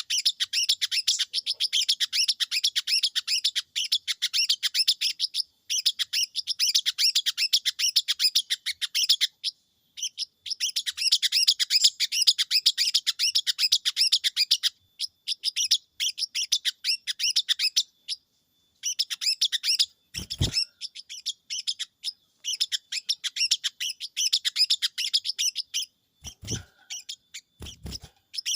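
A sogon songbird singing in long, rapid, high-pitched chattering bouts, with short pauses between them. A few brief low thumps come in the second half.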